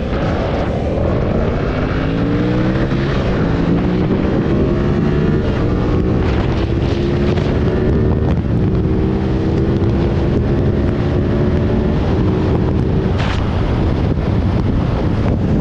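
Vehicle engine pulling away and accelerating, its pitch climbing slowly, with wind noise over it.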